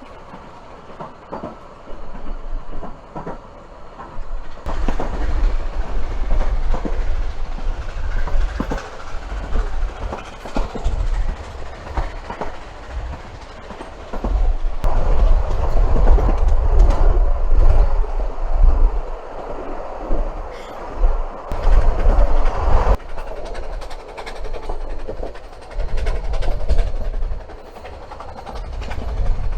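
Narrow-gauge steam railway carriage on the move, its wheels clicking over the rail joints over a loud rumble and rattle that swells and eases, loudest in the middle.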